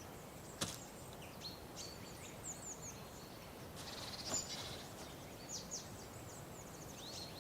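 Faint, high-pitched bird chirps, many short downward-sweeping notes in quick runs, over a quiet forest background, with a brief click about half a second in.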